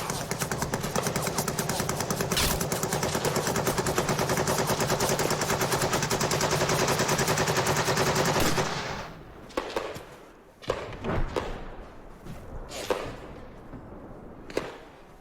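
Sustained rapid machine-gun fire that cuts off suddenly about nine seconds in, followed by a handful of scattered single shots or impacts.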